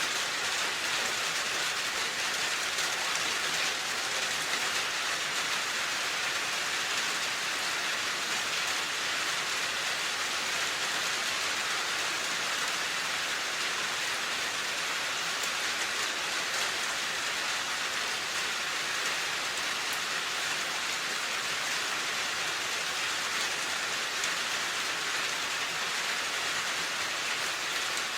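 Steady rain falling, an even hiss with fine pattering of drops.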